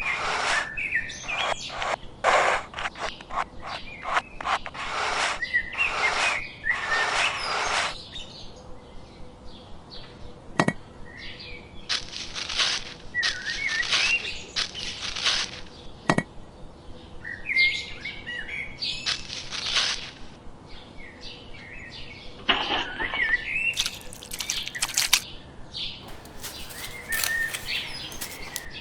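Small birds chirping in short calls, over a short scrape-like noise repeated many times and a couple of sharp clicks.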